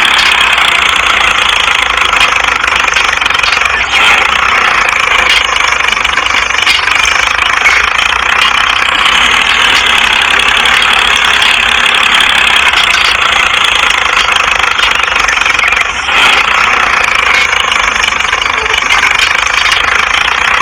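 Small motor of a DIY mini tractor running steadily with a loud buzzing whine, dipping briefly twice.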